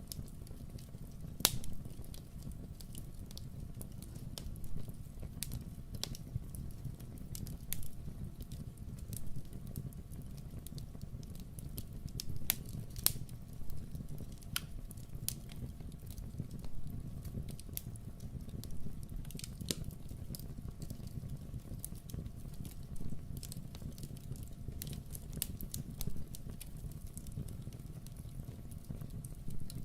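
Wood fire in a fireplace crackling, with irregular sharp pops over a steady low rumble. One pop about a second and a half in is the loudest.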